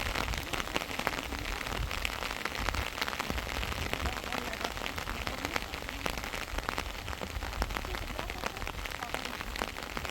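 Heavy rain falling, a steady hiss with the dense patter of many separate drops striking.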